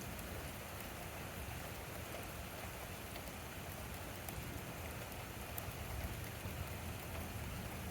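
Steady rain falling during a thunderstorm, an even hiss with a few faint drop ticks and no thunder.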